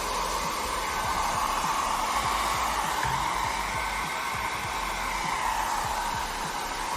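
Hair dryer set to low speed, blowing steadily, its whine drifting slightly in pitch, as it dries out a water-damaged car stereo head unit.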